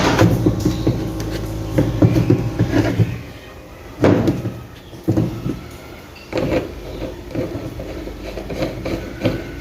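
Washing machine motor fitted with a drill chuck, humming steadily for about three seconds and then dying down, followed by a few sharp knocks and clunks of the motor and chuck being handled.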